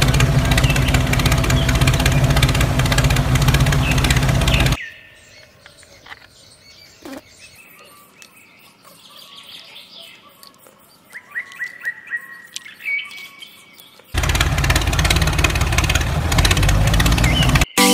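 A tractor engine running steadily, cutting off about five seconds in. A quiet stretch follows with birds chirping, then the engine runs again from about fourteen seconds until just before the end.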